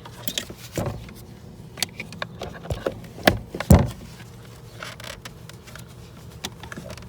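Small electric dual-power water transfer pump, plugged into an inverter, running with a steady low hum while water is pumped. Sharp clicks and knocks from handling the hose and fittings sound over it, the loudest a little past halfway.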